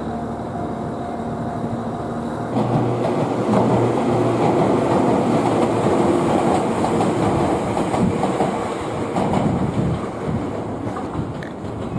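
Kiya 97 series diesel railcars passing close by. An engine hum swells into a loud rush about two and a half seconds in, with wheels clacking over the rail joints, then eases near the end.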